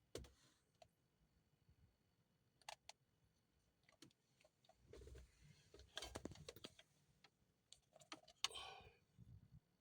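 Faint scattered clicks and brief rustling from handling a code scanner as it is plugged in and its buttons pressed.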